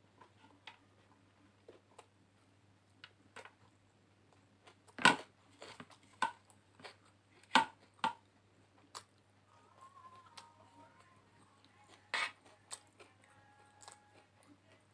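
Someone eating raw sliced onion salad by hand: scattered chewing and crunching, with a few loud sharp crunches in the middle.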